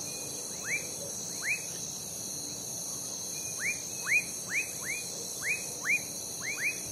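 Night chorus of crickets making a steady high-pitched trill, with frogs calling over it in short whistles that fall in pitch. There are about a dozen whistles, irregularly spaced and sometimes in quick pairs, and they are the loudest sounds.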